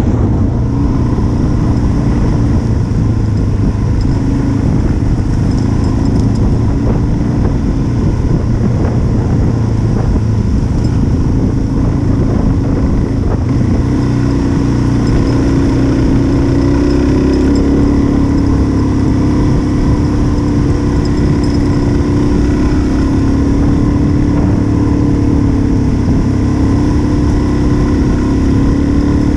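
Onboard single-cylinder dual-sport motorcycle engine running at a steady cruising speed. Its pitch rises and falls slightly around the middle as the throttle changes.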